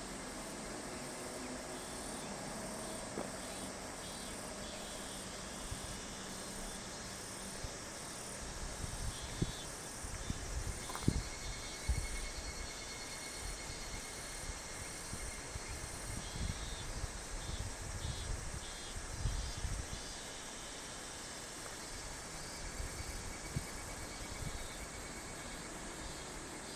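Summer insects chirping in a steady, rhythmic chorus over a constant hiss. Irregular low rumbling comes and goes from about a third of the way in until about three quarters of the way through.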